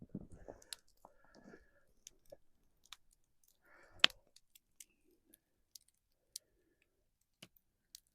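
Snow being scooped and packed into a cup for a slushy: scattered faint crunches and clicks, with one sharp click about four seconds in.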